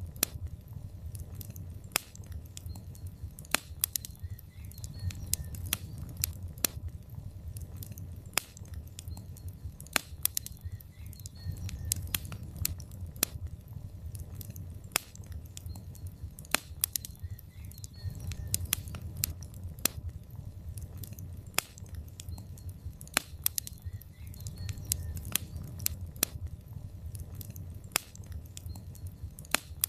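Wood fire of burning logs in a fireplace crackling, with frequent sharp, irregular pops over a low, steady rumble of the flames.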